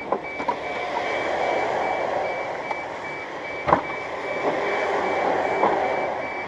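Rapid electronic warning beeps, a single high tone repeating several times a second without a break, over a steady rumble of traffic and engine noise. One sharp click or knock comes partway through.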